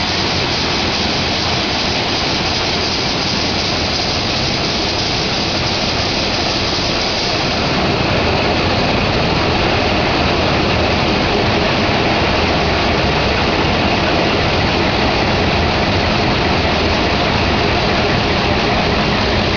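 Museum stationary engine running steadily, getting a little louder about eight seconds in.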